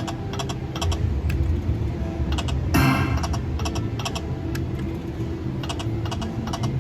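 Video slot machine sound effects as the reels spin: quick repeated electronic ticks and short chimes, with a louder burst about three seconds in. A steady low casino-floor hum runs underneath.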